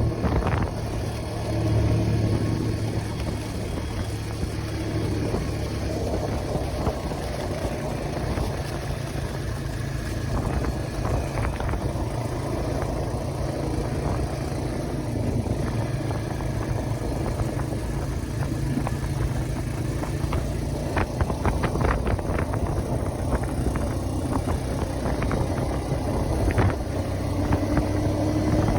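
A vehicle's engine running steadily while under way, with a few short knocks and rattles about two-thirds of the way through.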